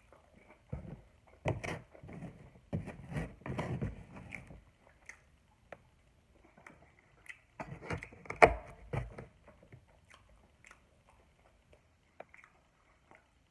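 Close-up eating sounds of a cheeseburger meal: irregular wet chewing and biting with mouth clicks, loudest about eight seconds in, thinning to a few faint clicks near the end.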